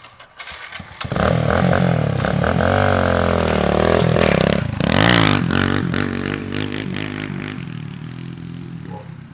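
Dirt bike engine suddenly revving hard about a second in, its pitch climbing and falling as the rider works the throttle and gears, with a quick drop and rise near the middle, then fading steadily as the bike rides away.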